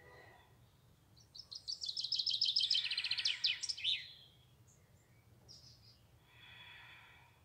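A songbird singing one rapid trill of many quick high notes, lasting about three seconds, followed a little later by a single short chirp.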